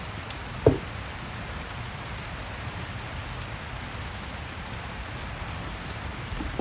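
Steady rain with a fireplace crackling: a continuous hiss of rainfall, scattered small clicks, and one loud sharp pop a little under a second in.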